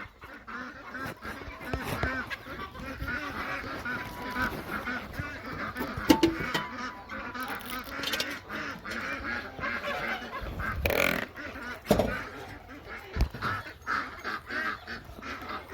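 A flock of birds calling all at once in a dense, continuous chatter. A few sharp knocks come through it, at about six, eleven and twelve seconds in.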